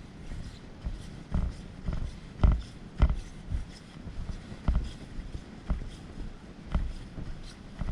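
A series of irregular dull thuds and knocks, about one or two a second.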